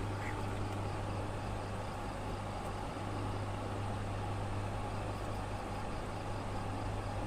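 Steady low hum under a constant rushing noise, unchanging throughout.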